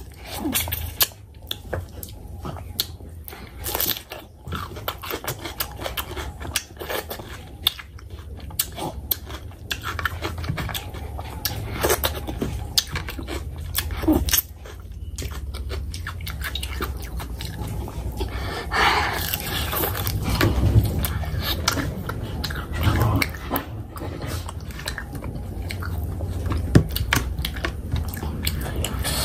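Close-miked chewing and biting of oily fish curry with rice: wet mouth smacks and many short clicks over a steady low hum.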